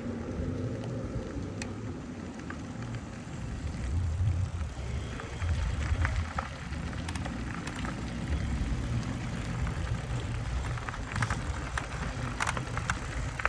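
Wind rushing over the microphone and tyre rumble from an e-bike riding along, with scattered light clicks and rattles in the second half.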